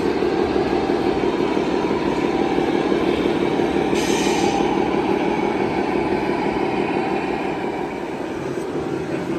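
Small electric motor and gears of a radio-controlled toy truck running steadily, with a fine fast rattle and a brief higher hiss about four seconds in.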